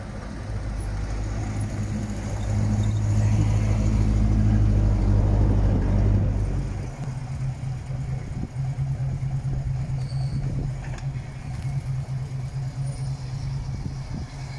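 Car engine running close by, growing louder and then dropping away about seven seconds in. After that, an engine idles steadily with an even, rhythmic pulse.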